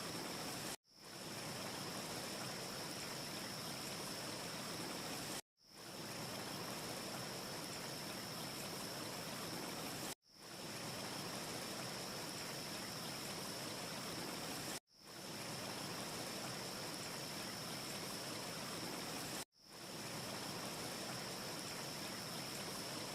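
Looped wind ambience: a steady, even hiss with a faint high steady whine in it. It cuts out to silence for an instant and fades back in five times, about every four and a half seconds, where the short loop restarts; no fire crackle stands out.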